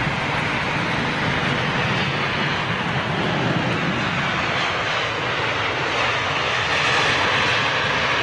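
Boeing 787 Dreamliner's jet engines on approach to land, a steady rushing jet noise that grows a little louder near the end.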